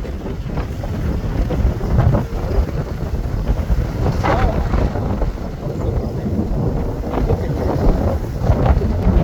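Strong, gusty wind buffeting the microphone, a heavy low rumble that swells and eases irregularly.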